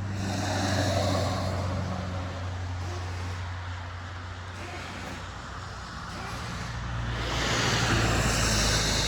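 Motor vehicle noise: a steady low engine hum, with a vehicle growing louder and passing near the end.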